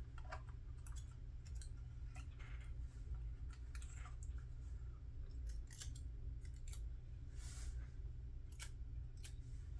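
Small scattered clicks, snips and scrapes of hand tools and foil being handled on a model-building workbench, over a steady low hum.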